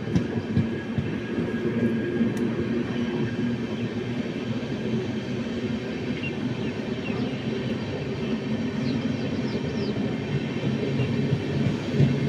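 Indian Railways passenger express train running through a station, its coaches rolling past on the rails with a steady rumble.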